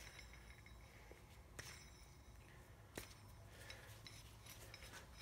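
Faint metallic clicks and clinks of small hand tools being handled and put away, with two sharper taps about one and a half and three seconds in.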